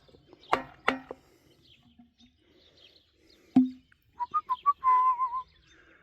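Birds calling: a quick series of short whistled notes, then a longer wavering whistle. A few sharp knocks come near the start, and one louder knock about three and a half seconds in.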